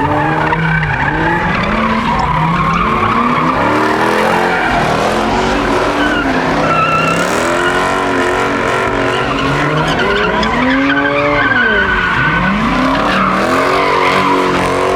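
A car's engine revving up and down again and again while its tyres squeal and skid, as in donuts or drifting.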